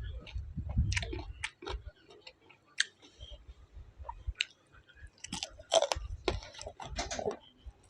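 A person chewing food close to the microphone, with irregular crunches and wet mouth clicks; a run of louder crunches comes about two-thirds of the way through.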